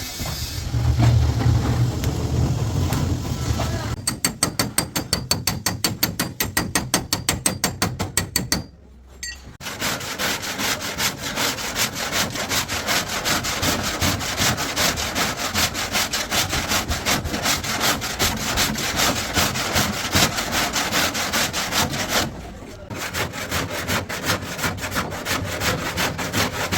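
A hand tool worked back and forth on steel, scraping or sawing in regular strokes, at first about two and a half strokes a second and then much faster and denser. A loud low rumble fills the first few seconds.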